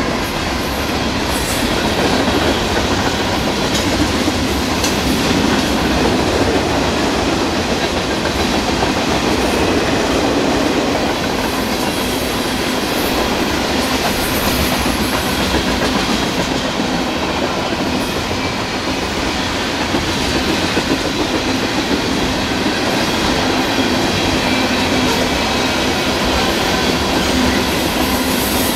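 A train rolling through a grade crossing close by: a loud, steady rolling rumble of wheels on rail that goes on without a break.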